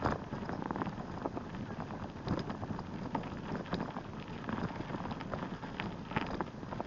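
Bicycle riding noise: tyres rolling over a rough surface with a steady mix of irregular crackles and clicks.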